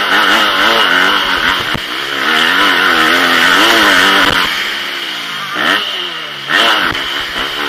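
Motocross bike engine at race pace, revving up and down with the throttle and gear changes, heard from the rider's helmet camera. The engine note falls for about two seconds just past the middle as the throttle is eased, then climbs hard again near the end.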